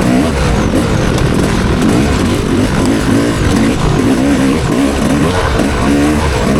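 Motocross dirt bike engine revving hard and falling off again and again as the rider works the throttle around the track, the pitch rising and dropping every second or so.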